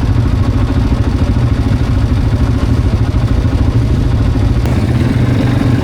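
Quad bike engine running steadily with a dense, fluttering low rumble, with a single short click a little over four and a half seconds in.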